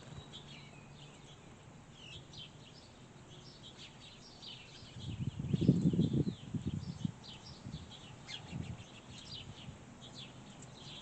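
Small birds chirping, a busy run of short high chirps throughout. About five seconds in, a low muffled rumble lasts around two seconds and is the loudest sound.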